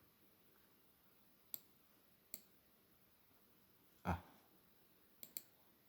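Five short, sharp clicks at uneven intervals over near silence, the middle one about four seconds in heavier and duller, the last two close together: a computer mouse clicking through pictures.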